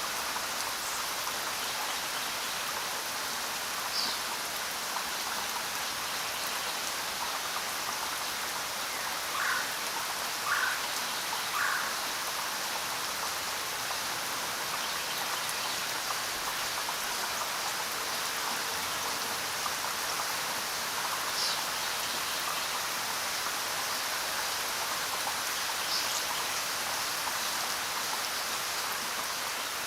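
Steady rain falling, an even hiss with scattered drops, and three brief louder sounds close together about ten seconds in.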